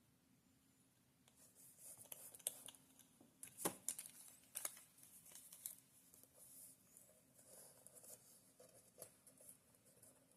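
Faint rustling and tearing of tissue paper and paper scraps being handled, with a few soft clicks, the sharpest about four seconds in.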